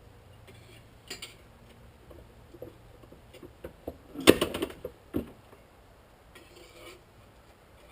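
Small metal clinks and knocks from parts or tools being handled, with a cluster of sharper clanks about four seconds in and a single knock about a second later.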